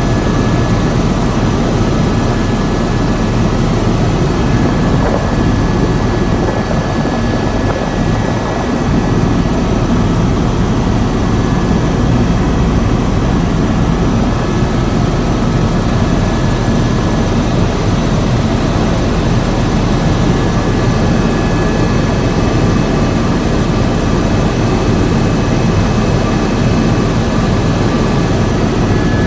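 Tour helicopter in flight, its rotor and turbine engine making a loud, steady drone with a thin steady whine above it.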